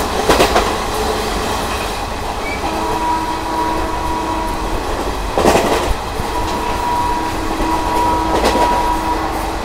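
Passenger train running at speed, heard from the open doorway of a coach: steady wheel-and-rail rumble with clickety-clack, while another passenger train passes close alongside on the next track at first. Sharp clanks of the wheels over rail joints or points sound about half a second in, around five and a half seconds and near the end, with a faint steady whistle of wheels on rail in between.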